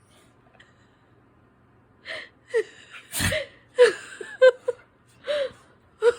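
A dog sneezing, a rapid run of six or seven short, sharp sneezes starting about two seconds in, the loudest a little past the middle.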